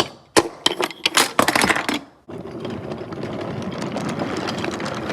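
Toy trains crashing together: about two seconds of sharp clattering knocks and rattles, then, after a brief pause, a steady mechanical rattle that runs on.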